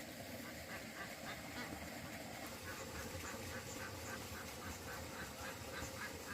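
Short animal calls repeated about four times a second, starting a little before halfway through, over a steady low background noise.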